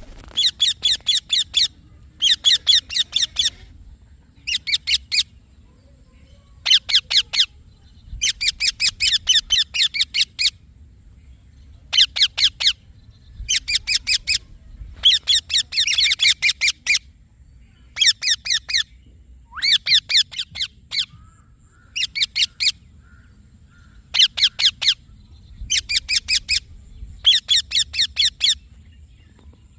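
Rose-ringed parakeet (Indian ringneck) calling in short bursts, each a fast run of shrill, high chattering notes lasting about a second, repeated every second or two.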